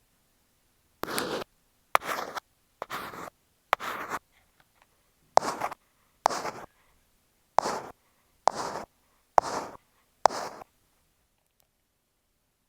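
Ear pick scraping over an earphone microphone in slow, even strokes: about ten short scratchy strokes roughly a second apart, which stop shortly before the end.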